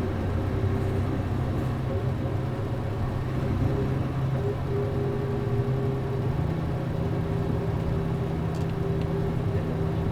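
Running sound of a city bus's MD92TJ diesel engine, heard from inside the cabin: a steady engine hum over road noise, its note stepping up in pitch about six seconds in.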